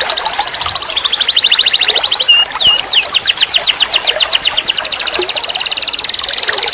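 Canary singing a series of fast, high-pitched trills, each a string of quick repeated notes. A short whistle and a sliding note come in the middle, then a long steady trill of about nine notes a second.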